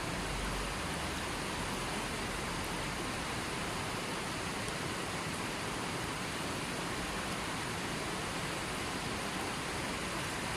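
River water rushing steadily, an even wash of noise with no change.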